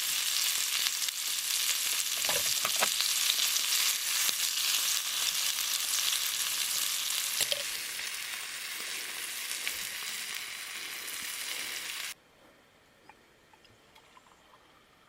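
Food sizzling as it fries in a pan, with a few light utensil knocks about two to three seconds in. The sizzle cuts off suddenly about twelve seconds in, leaving near quiet.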